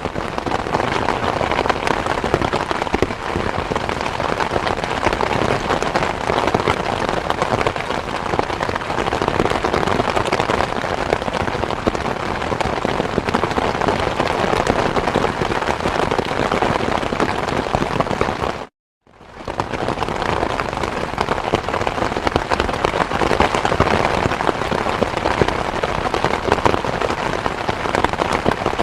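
Steady, dense rain: a constant patter of many drops. About two-thirds through, it cuts out completely for a moment, then fades back in.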